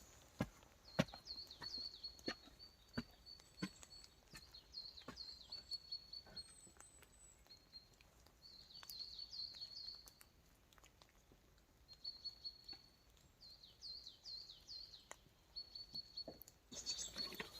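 A songbird singing repeated phrases, each a high sustained trill followed by a run of quick falling notes, with pauses of a second or two between phrases. Scattered sharp ticks and taps sound throughout, typical of drips falling in wet woodland.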